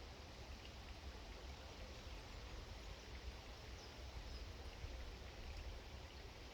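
Faint steady outdoor background noise with a low rumble, and a couple of faint high bird chirps a little past the middle.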